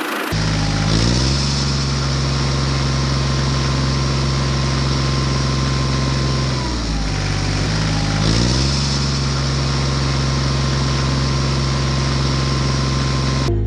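An engine running at a steady pitch. It revs up just after the start, drops briefly about halfway through, revs up again, then cuts off near the end.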